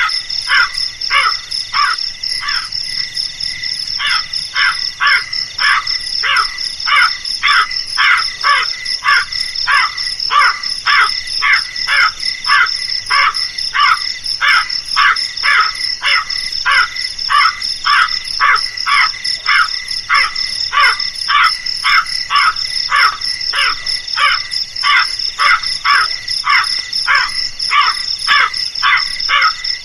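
Crow cawing over and over, short calls coming about twice a second with a brief pause a few seconds in, over a steady high-pitched insect drone.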